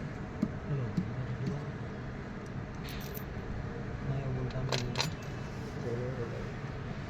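Light metallic clinks of small metal parts or hand tools being handled, a few separate clicks with the clearest about three and five seconds in, over a steady background noise.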